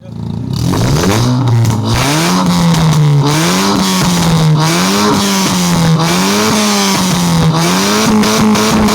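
Honda Brio's four-cylinder engine revved through a custom full racing exhaust. It climbs in pitch about half a second in, then is held high and blipped repeatedly, the pitch rising and falling about once a second.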